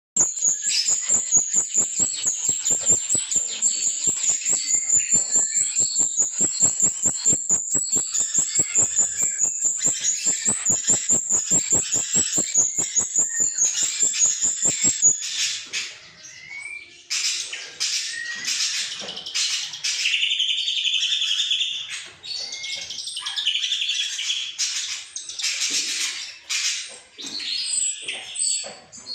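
White-rumped shama song used as a training and lure recording, packed with mimicked fillings. For about the first fifteen seconds it is a high, fast, unbroken trill over rapid regular ticking; after that the song breaks into varied chirps and whistles.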